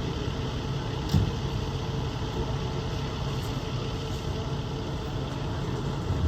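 Steady hum of an idling vehicle engine, with one brief knock about a second in.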